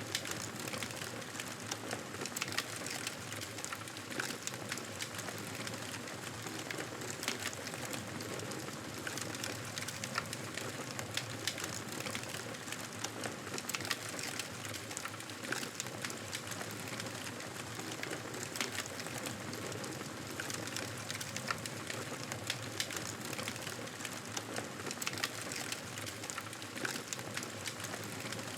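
Wood fire crackling steadily in a fireplace, with frequent small pops and snaps over a soft even hiss.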